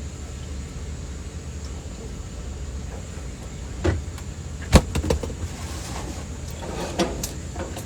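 A few sharp knocks and clicks, the loudest about halfway through, over a low steady rumble.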